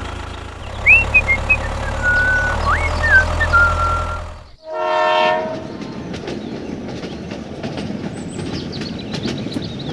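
A steady low engine hum with whistle-like rising and falling pitch glides over it. It cuts off about four and a half seconds in, then a short horn blast sounds and gives way to a rattling clatter of many clicks.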